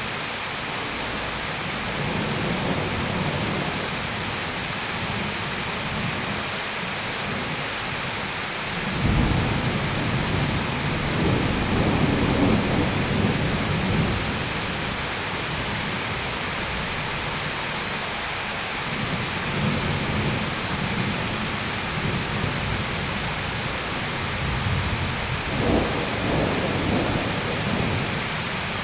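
Steady heavy rain with repeated rolls of thunder. A sharp clap about nine seconds in rolls on for several seconds and is the loudest moment. Softer rumbles come before and after it, and another clap comes near the end.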